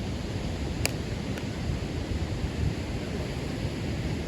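Steady rumble of wind on the microphone, with one sharp click about a second in and a fainter one just after.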